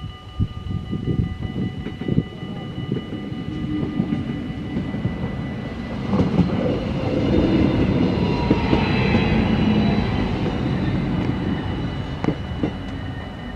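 Stadler GTW diesel multiple unit passing over a level crossing, its wheels knocking over the rails and its diesel engine droning, loudest about two-thirds of the way through and then fading. Steady ringing from the crossing's warning bells runs under it.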